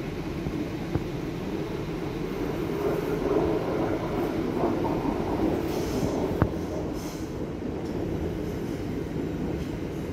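Trains rolling through a station: a steady low rumble of wheels on track, with one sharp click about six and a half seconds in.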